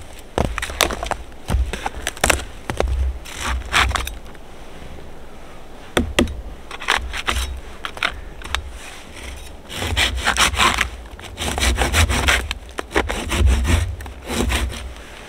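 Wood being sawn by hand, in bursts of back-and-forth strokes with short pauses between them, and a quick run of strokes toward the end.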